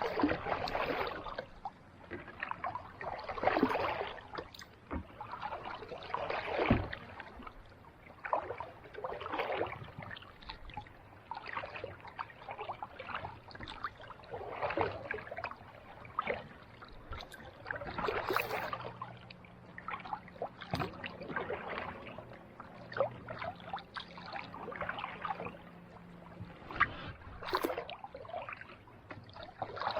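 Kayak paddle strokes in calm ocean water: a splash of the blade about every two to three seconds.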